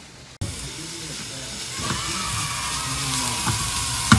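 Meat sizzling in a frying pan: a steady hiss that starts sharply about half a second in and grows a little louder, with one sharp clack near the end.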